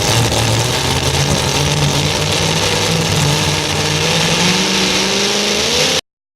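Modified pulling tractor's engine running loud, its pitch climbing near the end; the sound cuts off abruptly about six seconds in.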